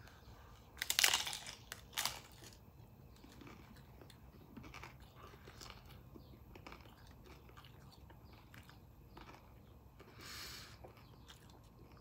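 A person biting into a crisp fried tostada shell, with a loud crunch about a second in and another just after, then chewing it with faint, irregular crunching.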